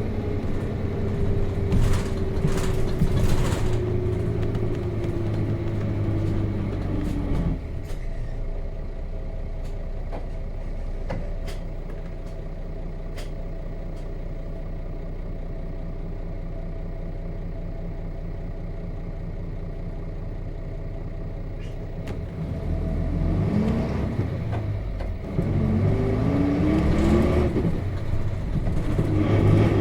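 Nissan Diesel KC-RM211GSN bus's FE6 diesel engine heard from inside: a falling engine and drivetrain note as the bus slows, cutting off suddenly about seven seconds in, then a steady low idle. Near the end the engine revs up again in several rising sweeps as the bus moves off.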